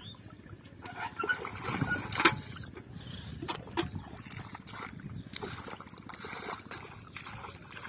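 Shallow water splashing and sloshing as hands work through it, with irregular sharp slaps, the loudest a little over two seconds in.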